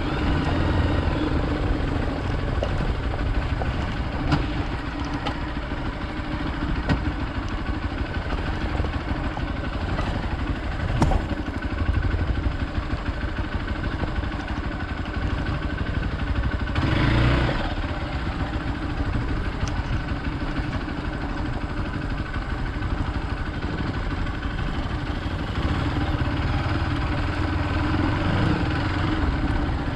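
Hero Xpulse 200 motorcycle's single-cylinder engine running steadily while riding off-road, with a few short knocks and a brief louder rush about 17 seconds in.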